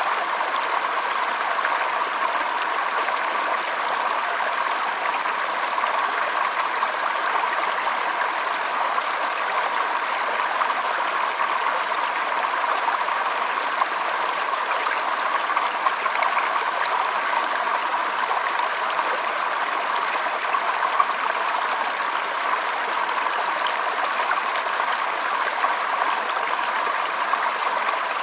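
Shallow stream trickling and flowing over stones: a steady, even babble of water with small splashes.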